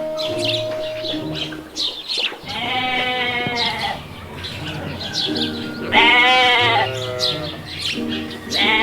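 Sheep bleating: two long, wavering bleats, the second one louder and starting about six seconds in, over background music.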